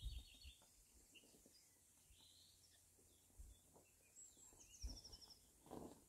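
Faint birdsong: scattered high chirps from small songbirds, with a quick run of about eight high notes a little past the middle. A few dull low thumps, the last followed by a short rustling noise near the end.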